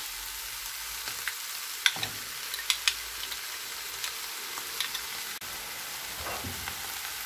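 Minced meat (keema) with onions and green chillies sizzling steadily in a frying pan, with scattered crackles and a few sharp clicks, most of them about two to three seconds in.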